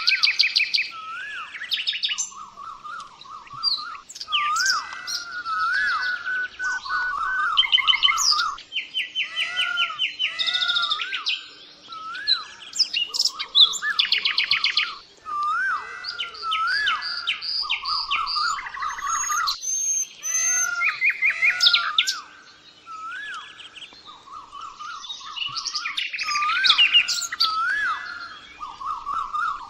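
Songbirds singing: a continuous run of varied phrases made of rapid trills and whistled, up-sweeping notes, with brief pauses now and then.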